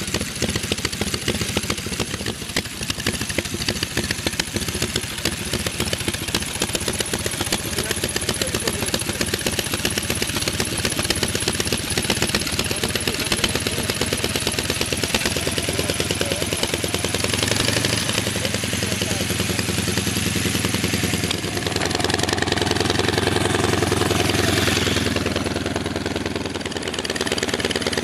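Vintage V4 motorcycle engine running with an even, rapid beat. It is revved up in the second half and settles back near the end.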